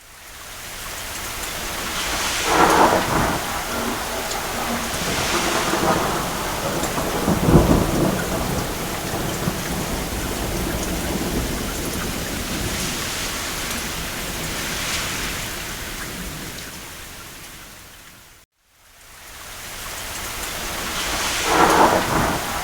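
Steady rain on a roof with rolling rumbles of distant thunder, the deepest and loudest about a third of the way in and others near the start and end. The sound cuts out to silence briefly about 18 seconds in and fades back up.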